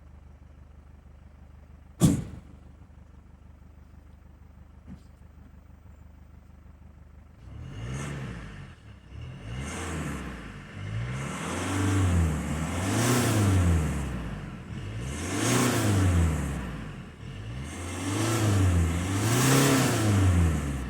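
Mercedes C220 CDI four-cylinder diesel idling at the exhaust, with one sharp knock about two seconds in. From about seven seconds in the engine is revved over and over, rising and falling every two seconds or so.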